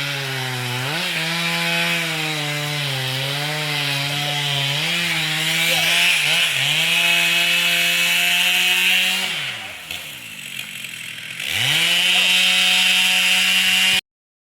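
Chainsaw cutting wood, its engine pitch wavering under load. A little after nine seconds in it drops to a low idle for about two seconds, then revs back up to full speed before the sound cuts off suddenly near the end.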